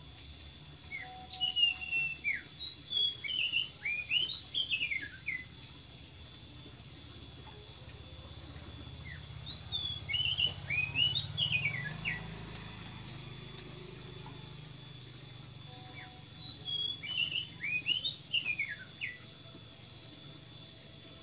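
A songbird singing three short bursts of quick, rising and falling chirps and whistles, several seconds apart.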